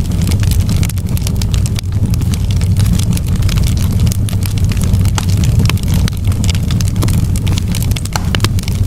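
Wood campfire burning, with frequent sharp, irregular crackles and pops over a steady low rumble.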